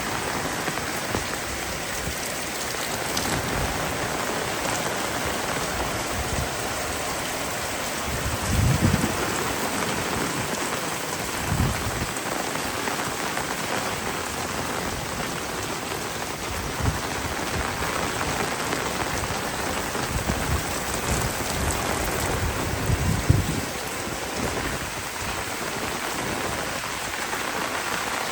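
Heavy rain falling steadily in a dense hiss, with a few brief low rumbles, the strongest about nine seconds in and again near twenty-three seconds.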